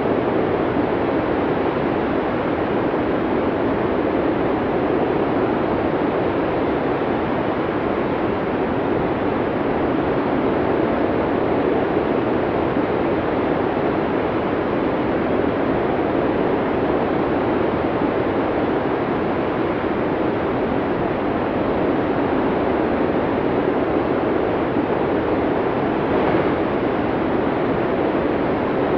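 Snowstorm wind blowing hard and steadily, a dense even rushing noise with no lulls.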